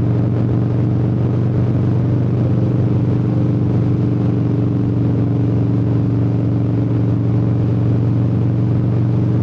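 Motorcycle engine running at a steady pitch, holding an even speed with no revving.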